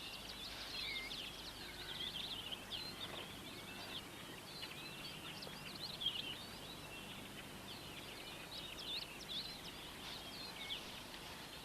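Faint chorus of many small birds chirping, short quick high calls overlapping one another over a low steady hiss of outdoor ambience.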